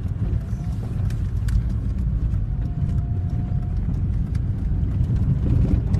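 Steady low rumble of a moving car's road and engine noise, heard from inside the cabin, with a few faint clicks.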